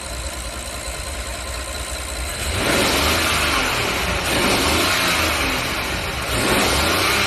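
Rolls-Royce Phantom's 6.75-litre twin-turbo V12 idling, then revved twice: it rises to a fuller, louder note about two and a half seconds in, eases off briefly, and rises again near the end.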